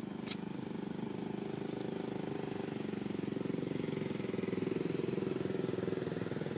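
A small engine running steadily with a fast, even pulse, growing a little louder toward about five seconds in and then easing slightly.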